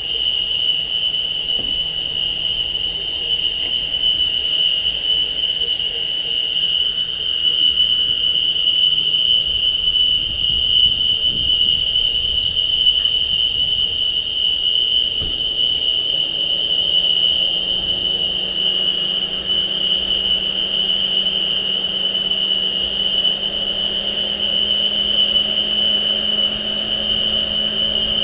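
A steady, high-pitched, cricket-like trill holding one pitch, over a low hum that rises slightly in pitch about halfway through.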